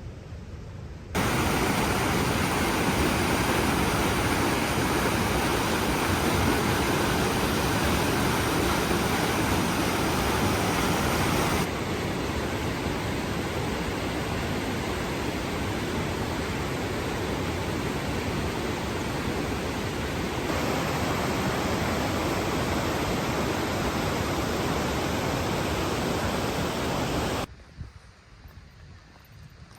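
Loud, steady rushing of fast-flowing water. It starts suddenly about a second in, shifts in level twice, and cuts off suddenly near the end.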